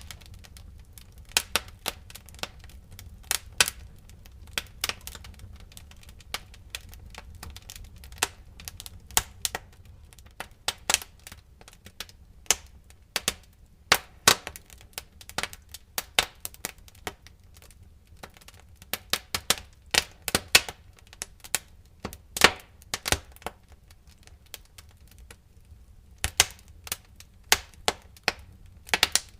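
Wood fire crackling in a fireplace: irregular sharp pops and snaps, a few a second, over a low steady rumble of the flames.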